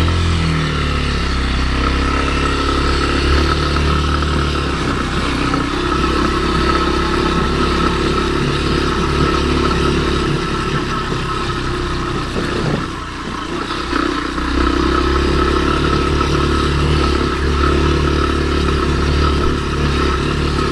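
Kymco KTR 150 single-cylinder four-stroke motorcycle engine running steadily under way, easing off briefly about two-thirds through before pulling again.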